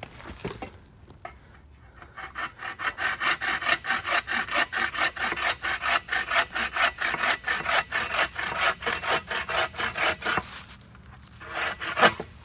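Hand saw cutting firewood in fast, even push-pull strokes, about four or five a second, which stop a little before the end. Then one sharp knock follows.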